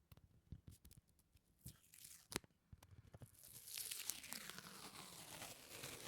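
Quiet sticky peeling sounds close to the microphone: a few separate sharp clicks and pops, then from about halfway a continuous crackling tear as something sticky is pulled away from a surface.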